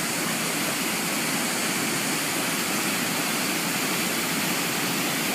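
Steady rushing of river water pouring over a small waterfall.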